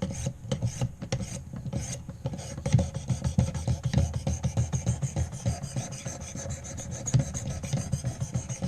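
Sharpening stone on a guided clamp-style knife sharpener, rubbed rapidly back and forth along the blade edge, making quick, even rasping strokes, several a second.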